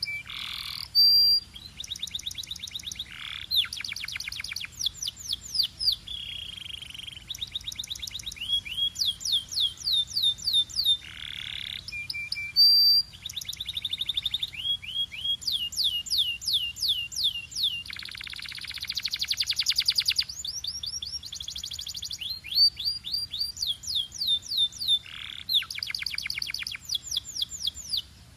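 Canary singing a continuous song of fast trills and rolls, each tour a rapid run of repeated notes at its own pitch, some sweeping up and down, changing every second or two. The song stops just before the end.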